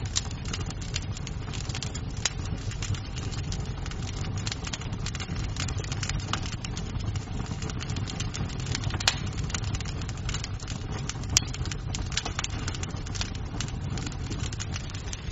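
Wood fire in a fireplace crackling: many small snaps over a steady low rumble, with two louder pops a couple of seconds apart past the middle.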